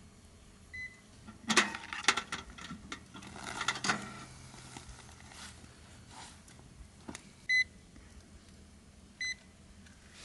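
Three short electronic beeps, one near the start and two near the end. Between them, a run of sharp clinks and knocks about one and a half to four seconds in.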